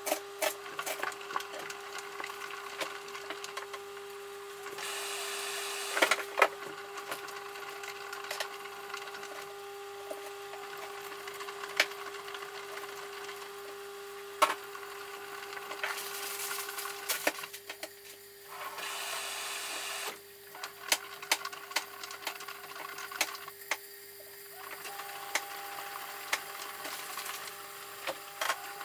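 Samsung washing machine running a cotton wash cycle: a steady motor hum with scattered clicks and knocks from the turning drum and load, and a few stretches of hissing, rushing noise lasting a second or two.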